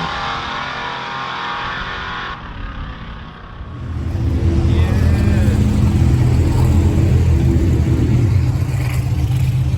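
Drag-racing car engine running at high revs, stopping abruptly a little over two seconds in; from about four seconds in, a loud, low engine rumble.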